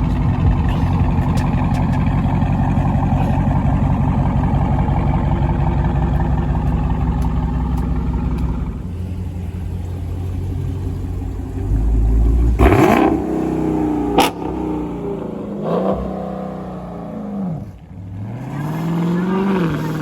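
Car engine running with a deep steady rumble, then quieter; about two-thirds of the way in it is revved sharply, with rising and falling revs near the end.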